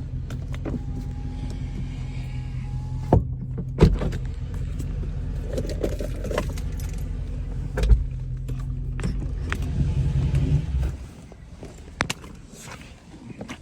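2022 Dodge Charger Scat Pack's 6.4-litre HEMI V8 idling steadily on its stock exhaust, with a few sharp clicks over it. The engine is shut off about eleven seconds in.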